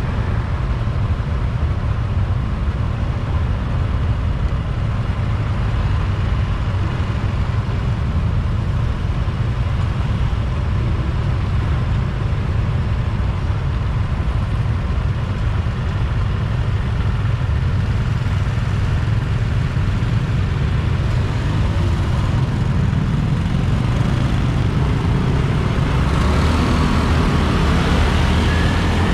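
Motorbike running while being ridden, with steady engine and road noise; it grows louder and brighter a few seconds before the end.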